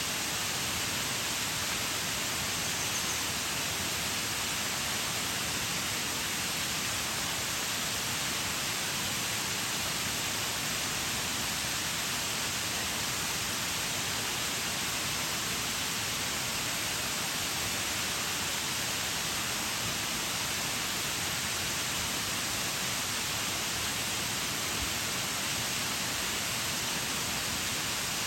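Waterfall pouring steadily: an even, unbroken hiss of falling water, bright and hissy rather than deep.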